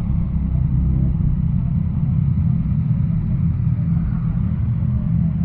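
Motorcycle engine running steadily at low revs, a continuous low rumble.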